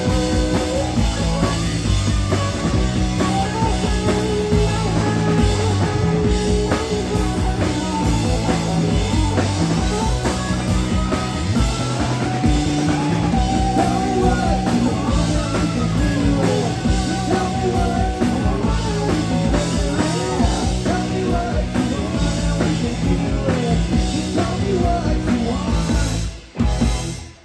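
Rock band playing loud, with drum kit and guitars and some singing; it breaks off near the end.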